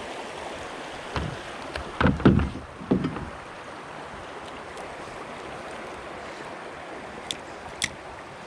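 Steady rush of river water running over shallow rapids, with a few loud low knocks and splashes from a kayak and its paddle between about one and three seconds in, and two sharp clicks near the end.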